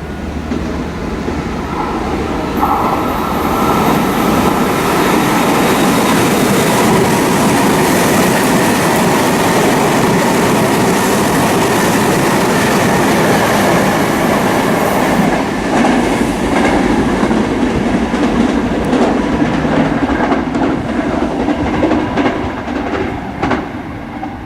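Meitetsu 2000 series μSKY eight-car train passing at speed: a rush of wheel and running noise swells over the first few seconds and holds, then gives way to a run of wheel clacks over rail joints as the last cars go by, dropping off at the end.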